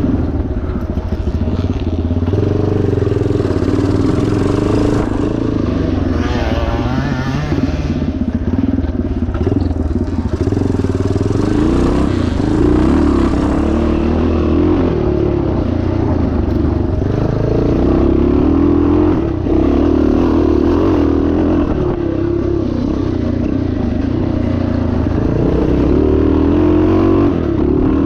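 1977 Yamaha TT500's four-stroke single-cylinder engine running hard off-road, its revs rising and falling continually as the throttle is worked.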